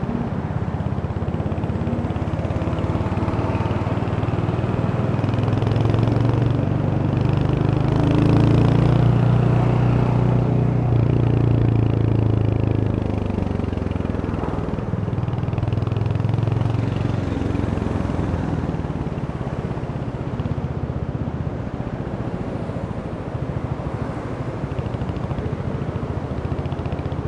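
Royal Enfield Hunter 350's single-cylinder engine running on the move, pulling harder and rising in pitch from about six seconds in, then easing off a few seconds later and settling lower toward the end.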